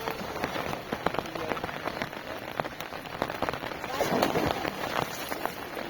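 Heavy rain falling and splashing, a dense hiss full of sharp drop impacts.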